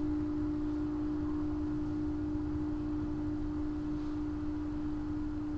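Crystal singing bowl ringing on one steady, pure tone.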